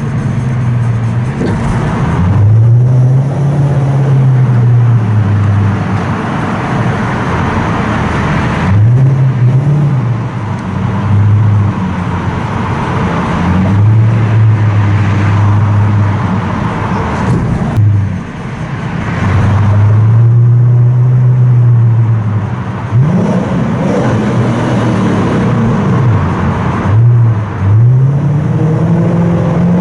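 Toyota Crown Majesta's V8 through a straight-piped exhaust with a ZEGSPEED Margay rear muffler, very loud and echoing in a tunnel. The engine note rises and falls again and again as the revs climb and drop back, about six times.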